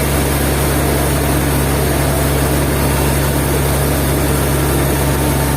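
Sawmill machinery engine running steadily, a loud, even low hum that holds constant throughout.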